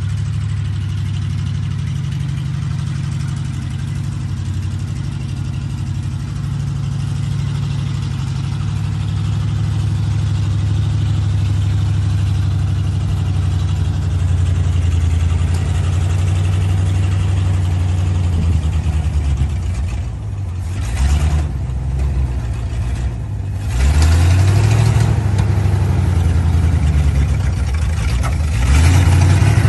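Old 1955 Ford grain truck engine running steadily, then its revs dip and pick up a few times about twenty seconds in and it runs louder through the last few seconds.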